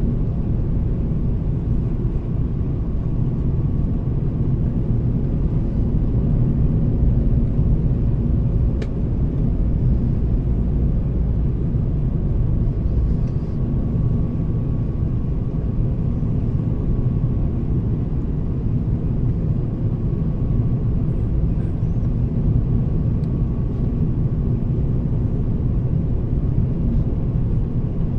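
Airbus A350-1000 cabin noise heard from a window seat: a steady low rumble of engines and airflow with a faint steady hum, and one small tick about nine seconds in.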